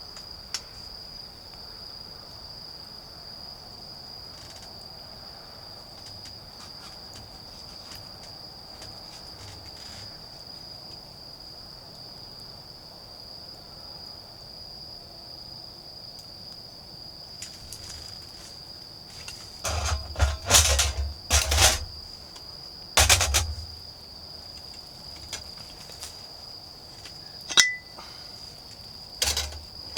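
Autumn crickets calling in a steady, even high trill throughout. About two-thirds of the way in comes a cluster of loud sharp cracks and knocks, with a few more near the end.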